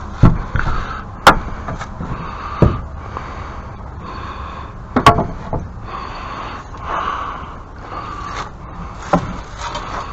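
Sharp knocks and scrapes of objects being handled and moved about, about five separate knocks over a steady background hiss.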